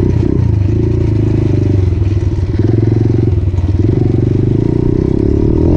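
Motorcycle engine running close to the microphone, a steady low pulsing whose note shifts a few times with the throttle.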